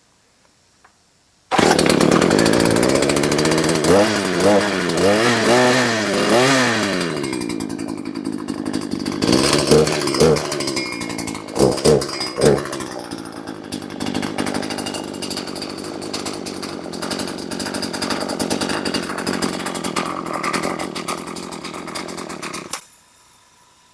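Husqvarna 240 chainsaw's new replacement two-stroke engine running. It cuts in abruptly about a second and a half in, is revved up and down several times, then blipped a few times around the middle. It settles to a steadier run and stops suddenly near the end.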